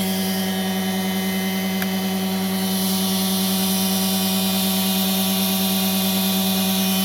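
Treadmill electric motor running steadily on a bench supply of about 110 V, an even hum with one strong steady tone. It runs smoothly and without sparking at the brushes, a sign that the motor is sound.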